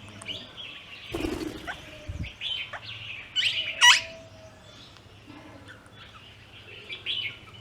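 Small birds chirping and calling at a feeding spot, with short chirps throughout and one loud, shrill call about four seconds in; the birds present are plum-headed parakeets and Himalayan bulbuls. A brief rustle, like wings fluttering, comes about a second in.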